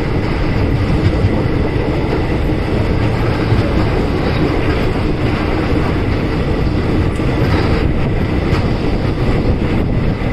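Passenger train running at speed: steady rumble of steel wheels on the rails, with occasional faint clicks.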